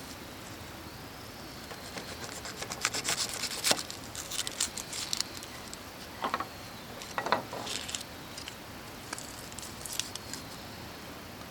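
Scattered light clicks, taps and rustling scrapes of things being handled, busiest in the first half.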